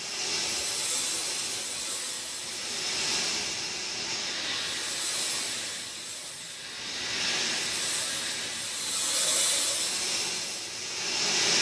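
Rain falling steadily, a dense hiss that swells and eases every couple of seconds.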